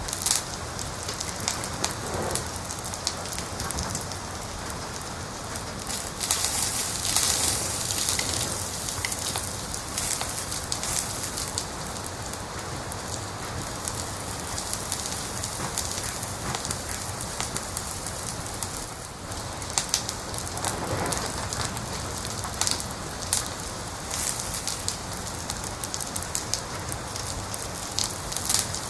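Wood fire crackling: a steady hiss with many quick pops and snaps, busier for a few seconds near the quarter mark.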